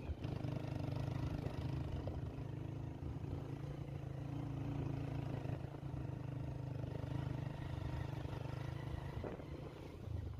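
A steady, low engine hum from a motor running at an even pace, easing off slightly near the end.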